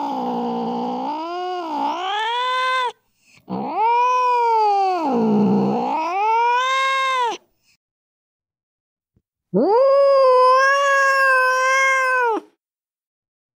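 Domestic cat yowling in three long, drawn-out calls, the first already underway. Each call slides down in pitch and back up, with a second or two of silence between them. These are recorded angry-cat sounds.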